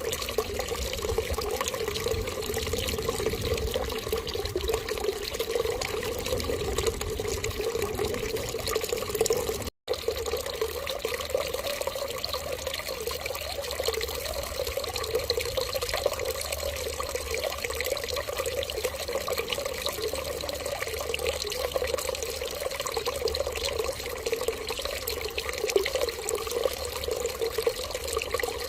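Steady running water, an even flowing sound with a strong mid-range rush, which cuts out for a split second about ten seconds in.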